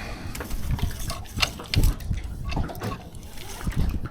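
Water lapping and splashing with irregular knocks and clunks, the loudest a little under two seconds in.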